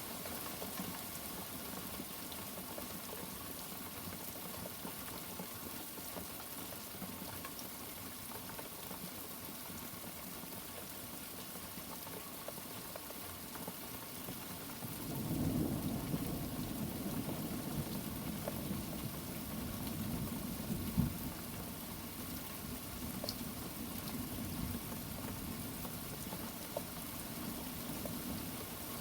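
Steady rain with thunder. A low rumble rolls in about halfway through and carries on for several seconds, with one short sharp crack inside it.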